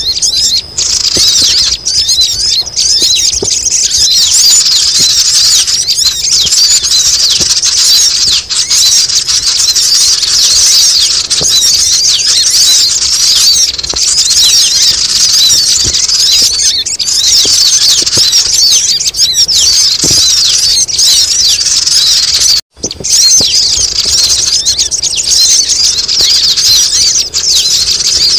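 Dense, continuous, high-pitched chattering of many sogon birds overlapping, a noisy lure-call recording for bird catching. There is a brief break about two-thirds of the way through.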